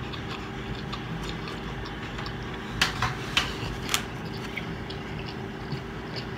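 Close-up chewing of a mouthful of pizza, with small mouth clicks over a steady low hum. There is a quick run of four sharp clicks about three seconds in.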